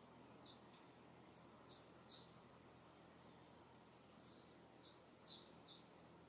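Distant small birds chirping: a scatter of short, high chirps, a few louder ones around two, four and five seconds in, over a faint steady hush of breeze.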